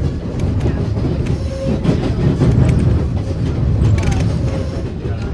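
Steady rumble and clatter of a moving passenger train heard from aboard, with the wheels clicking irregularly over the rail joints.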